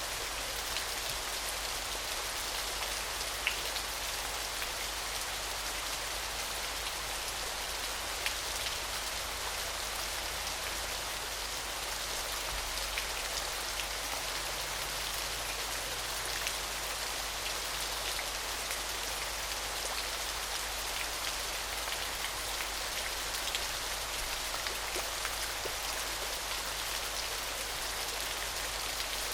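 A small waterfall splashing in a steady, bright hiss of falling water, with scattered drips and splashes ticking through it; two are more distinct, a few seconds in and again near 8 seconds.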